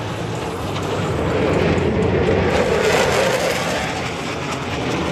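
Blue Angels F/A-18 Super Hornet jet noise, a steady roar of a passing jet that swells around the middle and then eases off.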